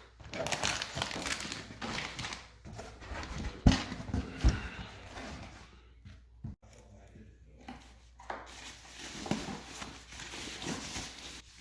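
Cardboard shipping box being opened by hand: scraping, tearing and rustling of box and packaging, with two sharp knocks about three and a half and four and a half seconds in.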